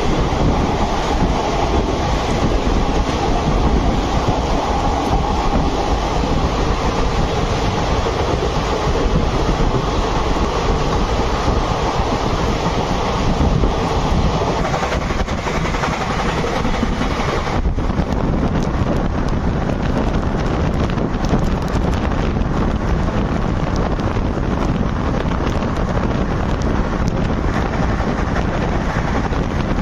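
Express passenger train running at speed, heard from an open coach doorway: a steady rumble and clatter of wheels on the rails mixed with wind on the microphone. A little past halfway the high hiss drops off suddenly while the rumble goes on.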